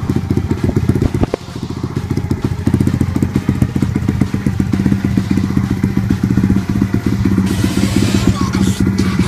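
Dirt bike engine running steadily with a rapid, even firing beat and a brief dip about a second in.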